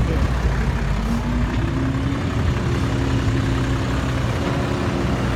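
Heavy diesel dump truck engine running steadily, its pitch stepping up slightly about a second and a half in and then holding.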